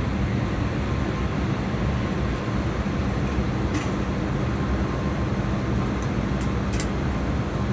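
Steady airliner cabin noise from the jet engines at taxi power and the cabin air, with a low hum. There are a few faint clicks, about halfway through and again near the end.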